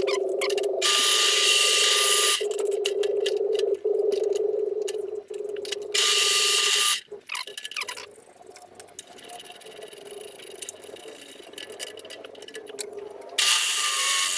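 Electric drill running steadily and boring through steel angle, with three loud bursts of harsh cutting noise. It stops about seven seconds in, leaving quieter handling sounds.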